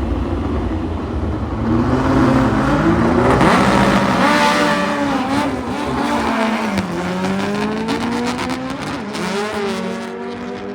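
Volkswagen Pro Stock drag cars' engines running at high revs, the pitch climbing and then dropping several times as they rev.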